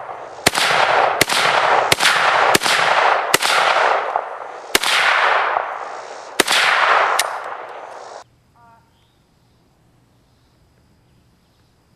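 Semi-automatic AK-pattern rifle (WASR-10/63, 7.62×39 mm) fired about eight times at an uneven pace, each shot sharp and followed by a long echoing tail. After that the sound cuts off abruptly to near silence.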